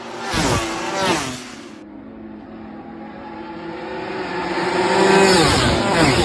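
Race engines at full speed passing on a straight: two machines flash by in quick succession within the first second and a half, each engine note dropping in pitch as it passes, then another approaches, growing louder, and passes near the end with the same falling pitch.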